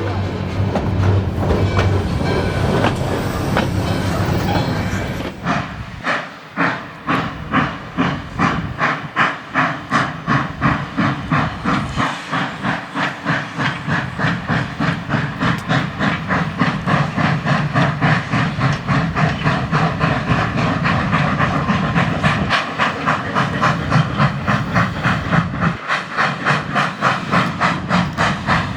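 Steam locomotive (2-8-0 Consolidation #18) working a train: a steady hiss of steam for the first few seconds, then its exhaust chuffing, the beats quickening from about one and a half to about three a second as the engine picks up speed.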